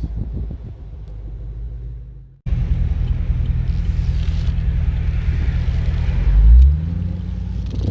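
Car engine running with a deep, low rumble. The sound cuts out abruptly about two and a half seconds in and comes back, and near the end the engine revs up briefly.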